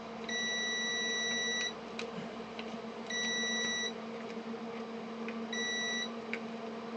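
Three electronic beeps at one steady high pitch, each shorter than the last (about a second and a half, then under a second, then half a second), over a steady low hum.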